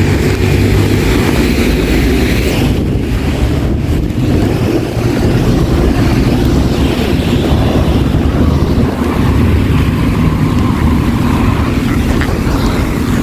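Steady, loud city traffic noise: passing vehicle engines and road noise blended into a continuous low drone.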